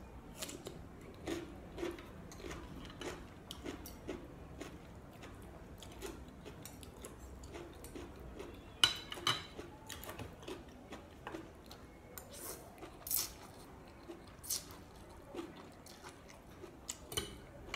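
Close-up chewing and crunching of raw cucumber and noodle salad, repeated every half second or so, with a fork and spoon clinking against a plate; the sharpest clink comes about nine seconds in.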